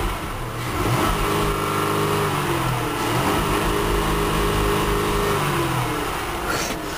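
The Dodge Journey's 3.5-litre V6 is revved: engine speed rises about a second in, is held steady for several seconds, then falls back toward idle.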